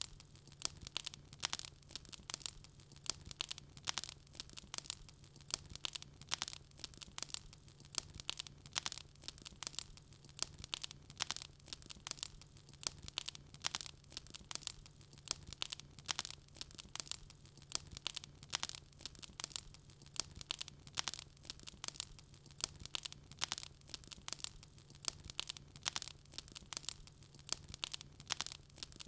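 Wood fire crackling in a fireplace: a dense, irregular run of sharp pops and snaps, with a faint steady low hum underneath.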